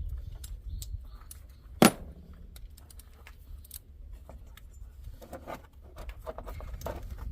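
Metal hand tools clinking against an engine pulley and its nut as it is worked loose by hand, with one sharp metallic clack about two seconds in.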